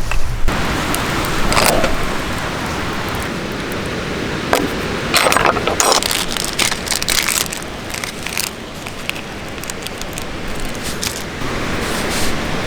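Campfire cooking: a steady hiss with crackling, and metal cookware scraping and clinking a few times, loudest about a second and a half in and again around five to six seconds in.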